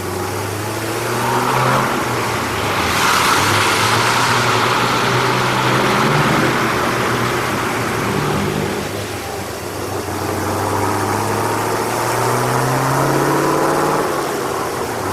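Car engine running at low revs, joined by a loud rush of noise from about three seconds in; near the end the engine note rises as it revs.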